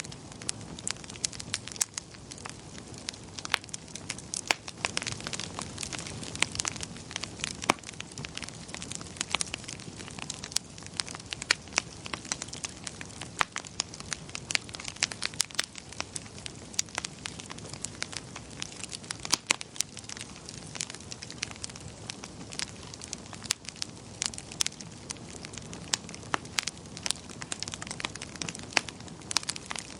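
Wood fire burning in a fireplace, crackling steadily with many sharp pops and snaps, several a second, over a low hiss of flames.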